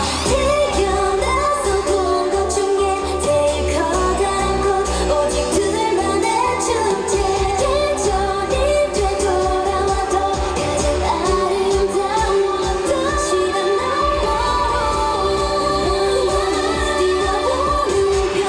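K-pop song played over a concert PA with female singing and a steady dance beat.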